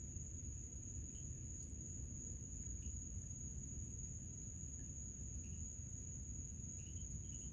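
Crickets trilling in a steady, unbroken high-pitched chorus over a low background rumble, with a few faint short chirps.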